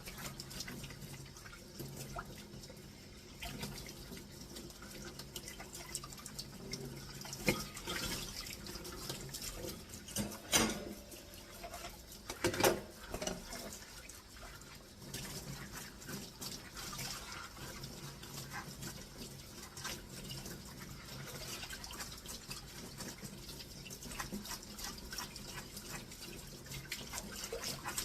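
Kitchen sink dishwashing: tap water running and splashing, with small clinks of dishes and a few louder knocks about a third of the way in and just before the middle.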